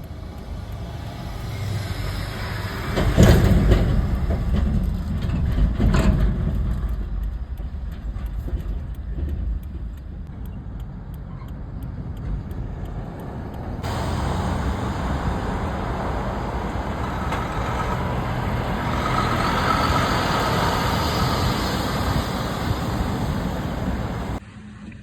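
Highway traffic with heavy trucks going past, a steady rushing noise with two loud passes about three and six seconds in. The sound changes abruptly about fourteen seconds in and drops suddenly near the end.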